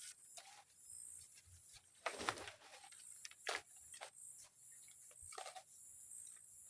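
Quiet forest background with a steady high hiss and a faint, repeating high chirp, broken by scattered short rustles and sharp clicks of handling. The loudest is a rustle about two seconds in.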